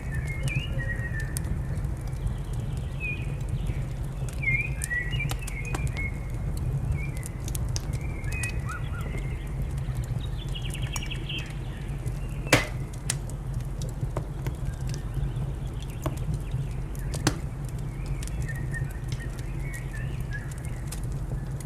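Wood fire in a fireplace crackling with sharp pops over a steady low rumble, the loudest pops about twelve and a half and seventeen seconds in. Small birds chirp now and then.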